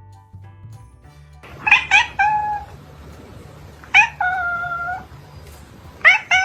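A domestic cat meowing three times: a short broken call of quick chirps ending in a brief held note, then a long meow held for about a second, then another long meow starting near the end. Quiet background music plays underneath.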